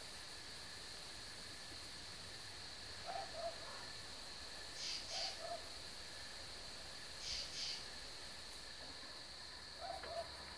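Birds calling in a forest: a low two-note falling call three times and a higher paired call twice, over a faint steady high hiss.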